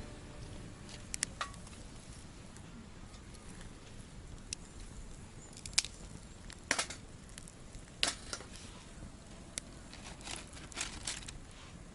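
Wood campfire crackling: irregular sharp pops and snaps over a steady low hiss, a few louder pops in the middle.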